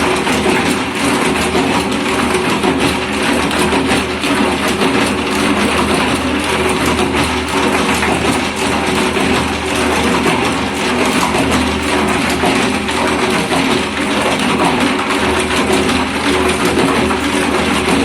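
Homemade concrete mixer running steadily: its motor hums while the turning drum gives off a constant dense clatter.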